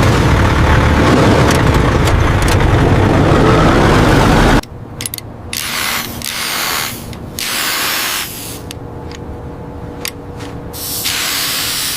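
A heavy engine running loudly, cut off abruptly about four and a half seconds in. Then several short bursts of hissing, with pauses between.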